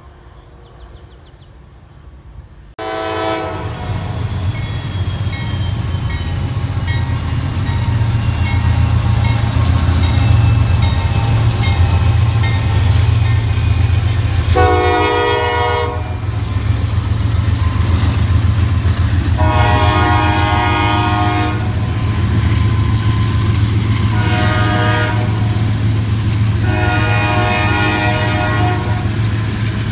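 Norfolk Southern diesel freight locomotives passing with a steady low rumble, starting suddenly about three seconds in. The locomotive air horn sounds five blasts of about one and a half to two seconds each, spread through the passage.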